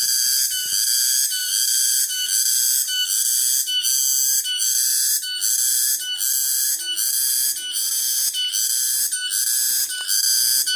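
Cicada song: a loud, high, shrill buzz that swells in an even pulse, about three pulses every two seconds.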